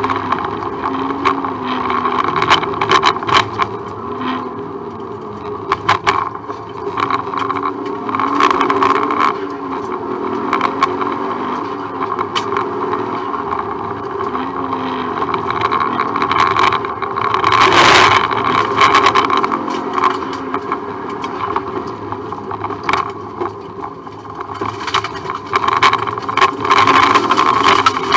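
Subaru Impreza rally car's flat-four boxer engine, heard from inside the cabin, revving up and down through the gears at stage pace. Knocks and rattles come throughout, with a loud hit about 18 seconds in.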